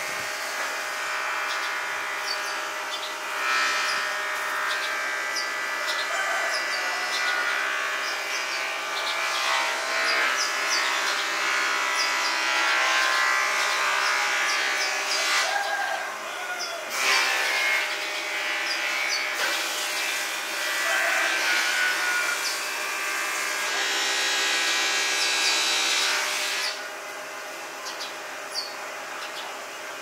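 Small birds chirping in quick, repeated short calls, the chatter thickest from a few seconds in until near the end, over a steady mechanical hum.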